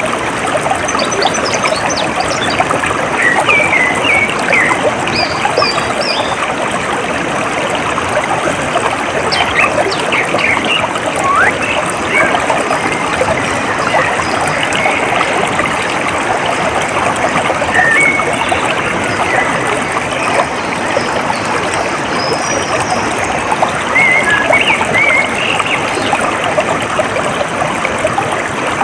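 Water trickling and burbling steadily, like a small stream. Birds chirp in short calls now and then above it, in clusters around the start, the middle and near the end.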